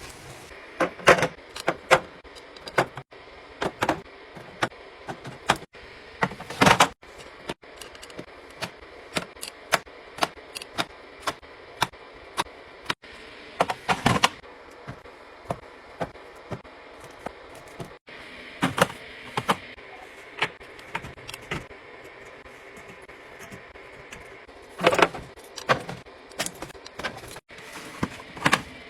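Items being placed into a fridge during restocking: an irregular run of sharp clicks, taps and clinks as bottles, cans and plastic containers are set on shelves and knock against each other, with a few louder clattering bursts.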